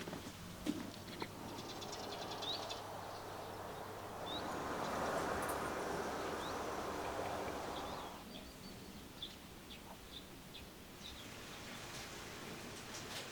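Small birds chirping outdoors, with short high calls scattered throughout. A broad rushing noise swells for about four seconds in the middle and then dies away.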